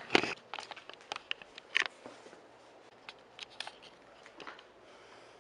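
Irregular clicks and knocks, a sharp loud one at the start, several more in the first two seconds and a few scattered later, like handling of tools or the camera.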